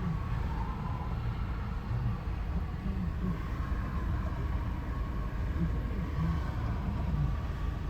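Long Canadian Pacific coal train rolling slowly past: a steady low rumble with faint thin tones above it.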